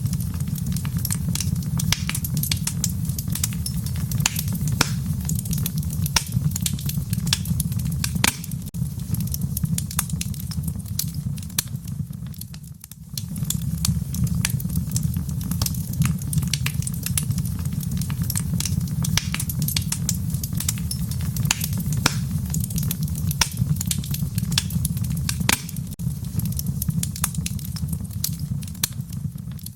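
Wood fire crackling in a fireplace: many sharp pops and snaps over a steady low rumble of the flames. The sound drops away briefly about halfway through.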